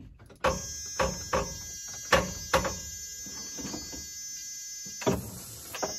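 Starter motor cranking the engine of a 1980 Bedford TK truck that hasn't run in a while: a steady whine with a regular beat of compression strokes, about two a second. It stops shortly before the end.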